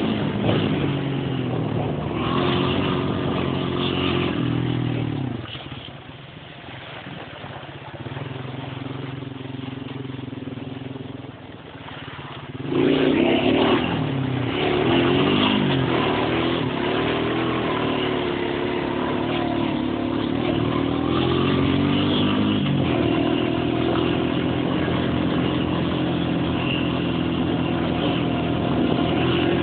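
Quad bike engine revving up and down as it is ridden, its pitch rising and falling. It drops away quieter for several seconds in the middle, then comes back loud suddenly.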